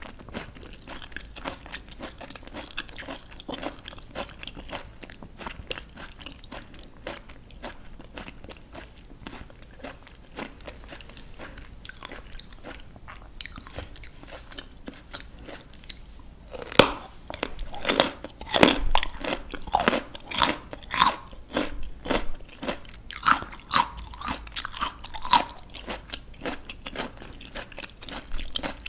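Close-miked chewing of raw, crisp vegetables: soft, steady chewing for the first half, then a loud crisp bite a little past halfway, followed by loud crunchy chewing.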